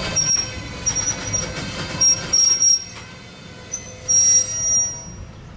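Freight train's gondola cars rolling past over the rails, their steel wheels giving several short, high-pitched squeals, the longest one about four seconds in.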